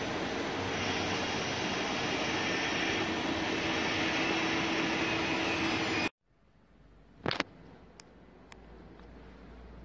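Freight train of tank wagons rolling past, a loud steady rolling noise of wheels on rail. About six seconds in it cuts off suddenly to quiet background, with one sharp knock a second later.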